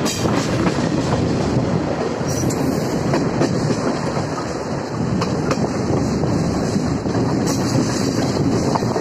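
Indian Railways passenger train running along the track, heard from the moving coach: a steady, loud rush of wheel and wind noise with occasional clicks of the wheels over the rail joints.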